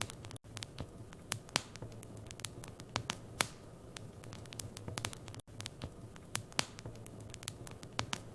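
Wood fire in a fireplace crackling, with irregular sharp pops and snaps of varying strength over a soft hiss and a low steady hum. The sound drops out for an instant twice.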